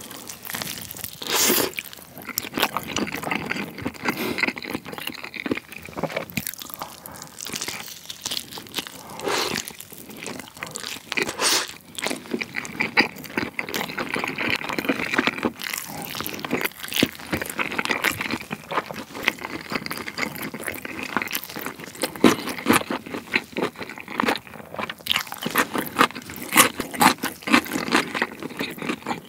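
Close-miked chewing and biting of a sauce-glazed grilled chicken drumstick: wet mouth sounds with dense crackling clicks, and louder bites now and then, the first about a second and a half in.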